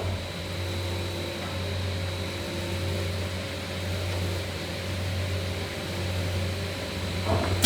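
Steady low hum of workshop machinery with a faint high whine, running evenly with no distinct strikes.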